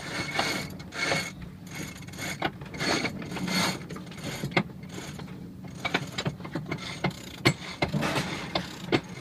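Sailboat sheet winch being cranked, its ratchet pawls clicking in irregular runs.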